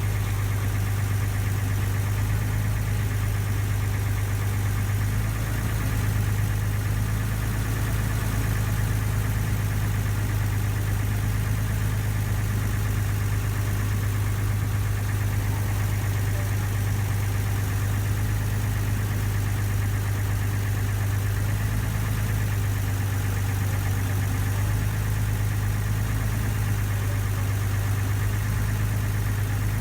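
River ferry's engine running steadily, a constant low drone with no change in speed.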